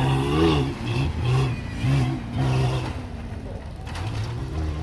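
Prerunner race truck engines revving in short repeated bursts, rising and falling over the first three seconds, then running lower with two more brief revs near the end. A faint voice is mixed in.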